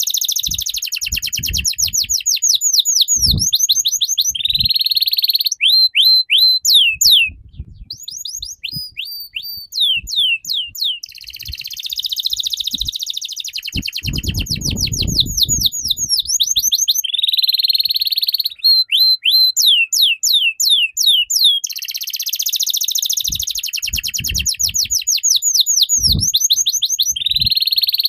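A songbird in full, continuous song: fast runs of sharp down-slurred whistled notes alternating with dense buzzy trills, repeated phrase after phrase. There are a few low thumps and a brief low rumble underneath.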